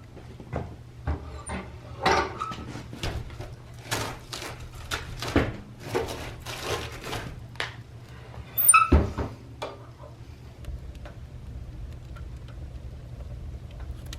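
A run of irregular knocks and clatters, as of objects being handled, loudest about nine seconds in, then a steady low hum.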